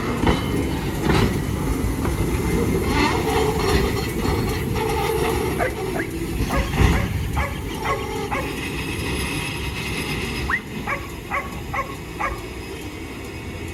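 Loaded freight train rolling with a steady low rumble, while a dog barks repeatedly, in a quick run of barks near the end.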